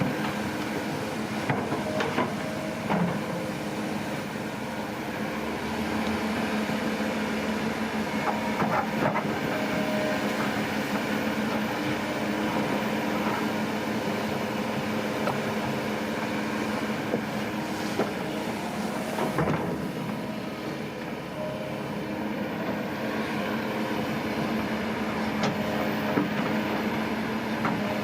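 Diesel engine of tracked earthmoving machinery, a bulldozer or excavator, running steadily under work, with scattered sharp metallic clanks from the tracks and steel parts.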